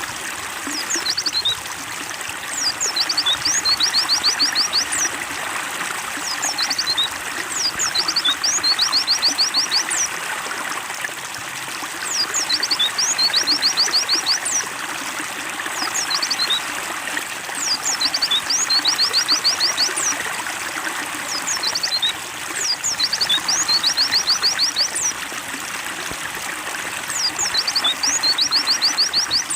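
Water trickling and splashing steadily, with a pleci (white-eye) singing over it in short high chirping phrases, each a quick run of rising notes, repeating every few seconds.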